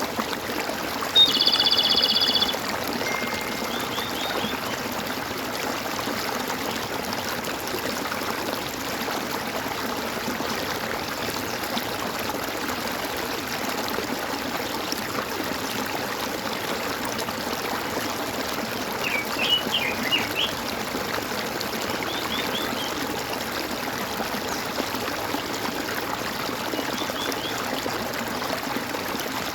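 A stream gurgling and trickling steadily, with birds calling over it: one loud call about a second in that lasts about a second, then a few faint short chirps, a small cluster of them about two-thirds of the way through.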